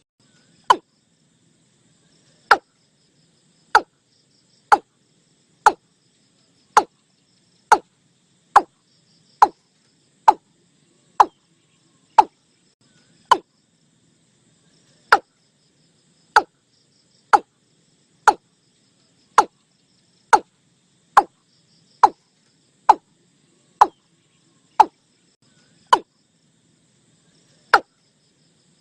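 Bird call the uploader names nok i-klung, played as a decoy call: short, sharp single notes that drop quickly in pitch, repeated about once a second with some uneven pauses.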